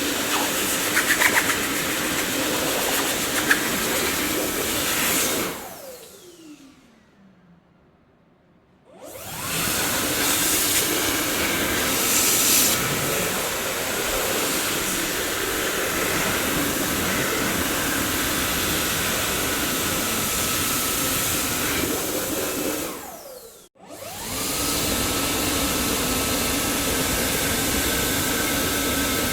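Dyson vacuum cleaner running with a steady loud whir. About five seconds in it is switched off: the motor whine falls in pitch as it winds down, then there are a couple of seconds of near silence before it starts up again. Near the end it cuts out briefly with a quick falling whine and comes straight back on.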